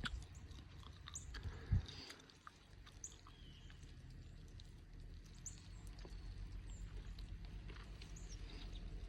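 Faint, short, high bird chirps every second or two over a steady low rumble, with scattered light clicks and a single thump about two seconds in.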